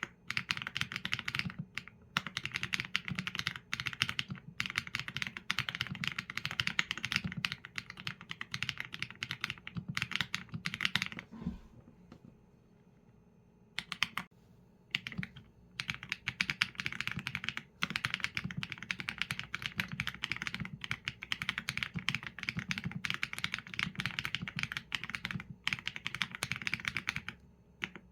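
Typing on a Qsenn A75 mechanical keyboard with Leobog Graywood V4 linear switches and PBT keycaps: fast, continuous key clacks in long runs, broken by a pause of about two seconds near the middle and a few shorter pauses.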